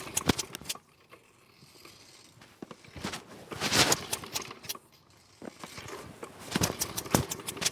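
Mountfield Emperor push mower's petrol engine being pull-started three times, each yank of the recoil cord spinning it over with a quick rattle of strokes for under a second. It doesn't catch: a cold start on full choke that keeps coming very close to going.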